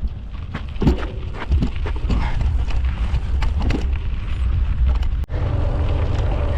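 Mountain bike rattling and clattering over a rough dirt trail, with heavy wind rumble on the microphone. About five seconds in, the sound cuts off abruptly and a steadier mechanical hum with a low, even drone takes over.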